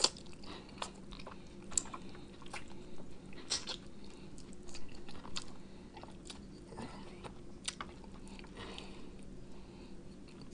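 Close-up eating sounds of a man biting and chewing barbecue chicken off the bone: irregular wet clicks, smacks and chews scattered throughout.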